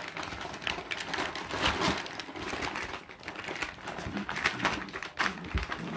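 A bag crinkling and rustling in irregular crackles as puppies chew and tear at it.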